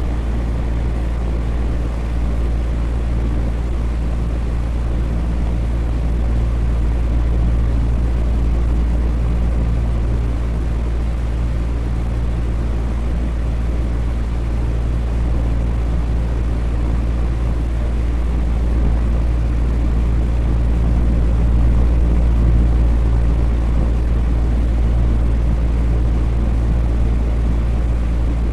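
Electric fan running steadily: a deep, even hum under a constant airy whoosh.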